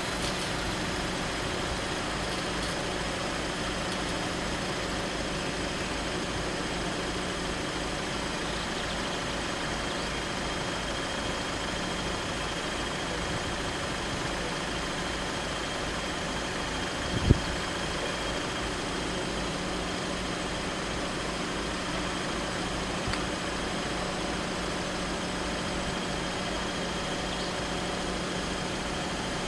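Car engine idling steadily, with one sharp click about seventeen seconds in.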